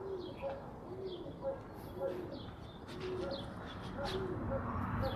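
Domestic pigeons cooing, a low rising-and-falling coo repeated over and over, with short high chirps mixed in.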